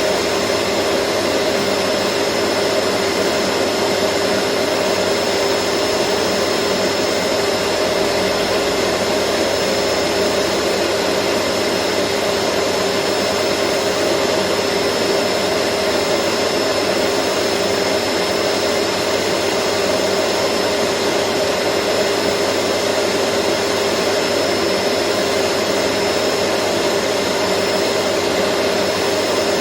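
Vacuum cleaner running steadily: a constant motor whine and rush of air, with an unchanging hum and a thin high tone.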